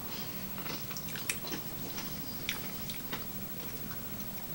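Faint eating sounds: chewing with a few small mouth clicks as soft, ripe apricot and spoonfuls of food are eaten, over a low steady hum.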